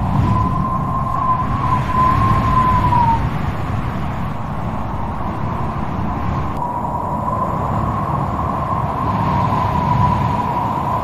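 Wind gusting with a rushing roar and a high whistling howl that wavers, drops away about three seconds in and comes back about halfway through.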